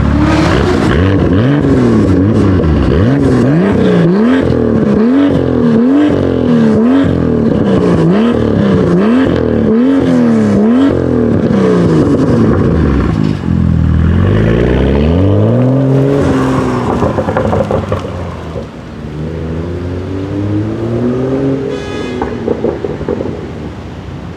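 BMW performance car engine revved hard in quick blips, its pitch rising and falling about once a second for some ten seconds, then dropping low and climbing again before it turns quieter with slower, gentler rises and falls.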